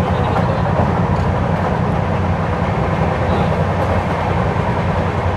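LHB passenger coach running at speed, with a steady rumble of wheels on rail.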